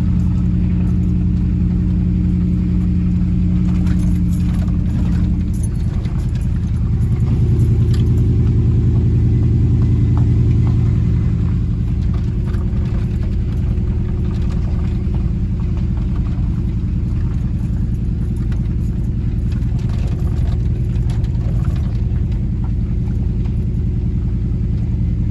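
Pickup truck engine and road noise heard from inside the cab, the truck climbing a hill slowly. About six seconds in, the engine note shifts and grows louder for a few seconds before settling again, with a few faint ticks.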